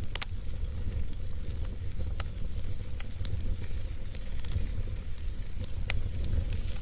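Wood fire burning in a fireplace: a steady low rumble of the flames with a soft hiss and sharp crackles and pops scattered through it, the loudest right at the start and about six seconds in.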